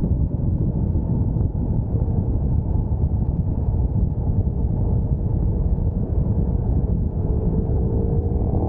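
Sport motorcycle engine running at speed under heavy wind rush on the microphone. Near the end the engine note climbs as the bike accelerates.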